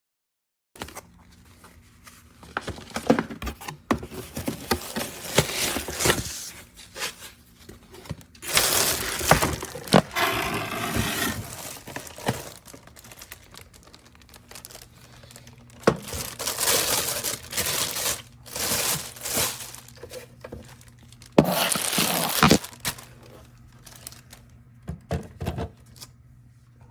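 Crinkling and rustling handling noises with scattered sharp clicks and knocks, over a faint steady low hum, starting about a second in.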